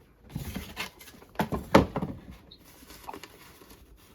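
Paper banknotes being handled and counted by hand: a handful of short rustles and flicks, the loudest a little under two seconds in, then a few faint ticks.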